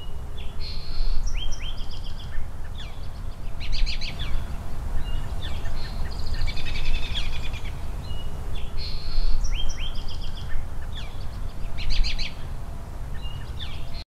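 Small songbirds calling and chirping: short whistled notes, quick downward-sweeping calls and rapid trills, over a low steady background rumble. The same run of calls comes round again about halfway through.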